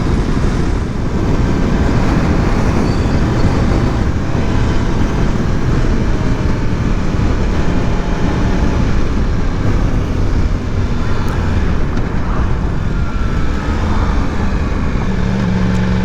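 Yamaha R1 inline-four sport bike being ridden, its engine note under a heavy rush of wind on the microphone. Near the end the engine settles to a steady, even hum, as at idle.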